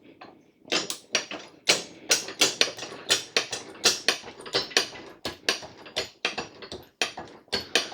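Hydraulic scissor motorcycle lift being raised with a motorcycle on it: a rapid run of metallic clicks and clunks, about three a second, starting just under a second in.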